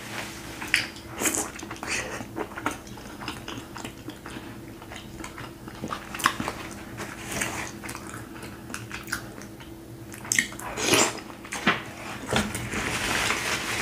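Close-miked chewing and wet mouth clicks from eating a hard-boiled egg coated in seafood boil sauce. Near the end, a paper napkin rustles.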